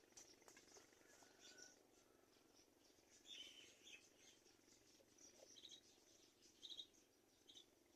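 Faint short, high-pitched bird chirps, a few scattered through, the clearest about three seconds in and near the end, over a soft background hiss.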